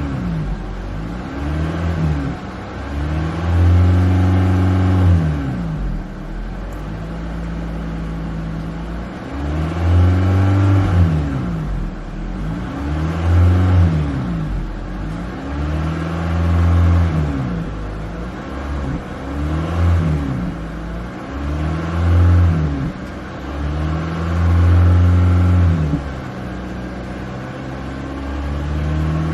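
Honda Civic engine revved again and again by pumping the gas pedal, the pitch rising and falling back toward idle every few seconds.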